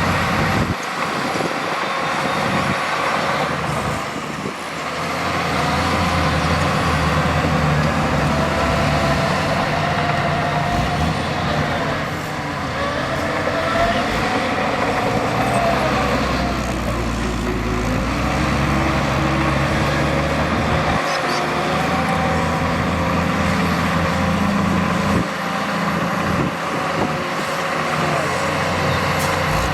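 Heavy diesel earthmoving machinery running steadily, its engine note rising and falling several times as it works under load.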